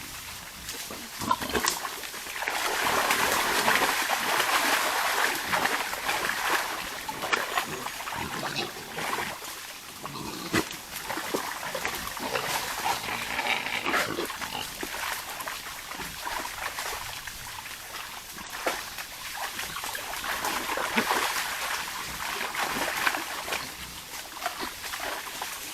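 Wild boars grunting and snuffling as they forage, in uneven spells with many short snorts and rustles, loudest a few seconds in and again in the middle and near the end.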